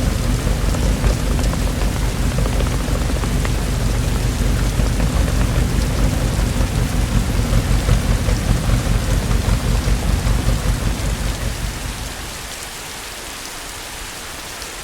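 Steady rain, with a low rolling rumble of thunder underneath that dies away about twelve seconds in, leaving the rain hiss on its own and a little quieter.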